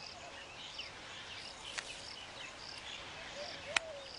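Weaver birds chirping in short sweeping notes over a high, short call that repeats a little more than once a second, with a couple of sharp clicks, the loudest near the end.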